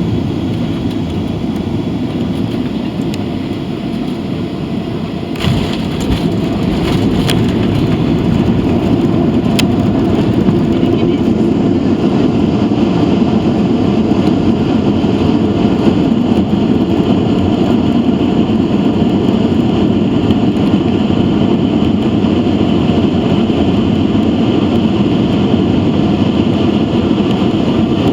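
Cabin noise of a Boeing 737-800 landing: a thump about five and a half seconds in as the wheels touch down, then a steady, louder roar of engines and rushing air as the jet rolls out on the runway.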